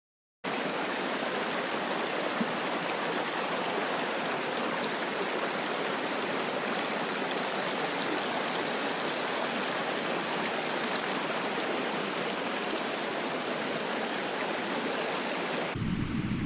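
Mountain stream water rushing steadily. It starts abruptly about half a second in and cuts off just before the end, switching to a different, lower-pitched noise.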